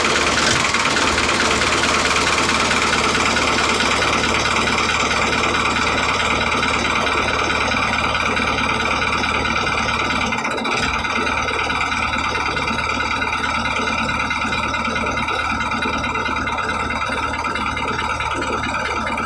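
Small electric motor running steadily with a constant whine, briefly dipping about halfway through.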